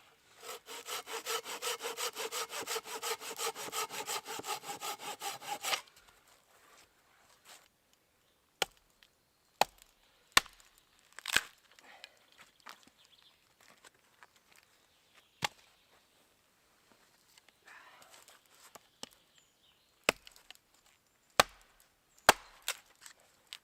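Silky folding saw cutting through a small piece of wood in fast, even strokes, stopping about six seconds in. After that come scattered single sharp knocks of wood on wood.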